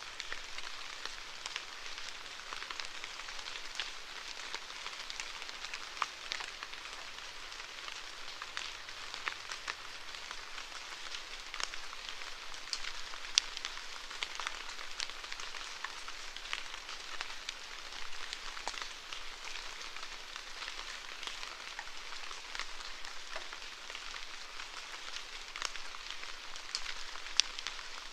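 Steady rainfall with many individual drops ticking sharply against a surface.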